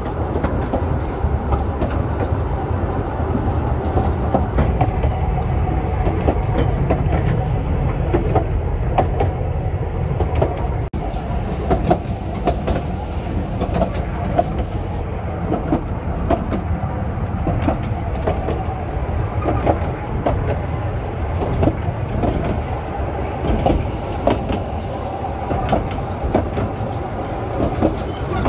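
Narrow-gauge railway carriage running along the track, heard from its open end balcony: a steady low rumble with frequent short clicks from the wheels on the rails.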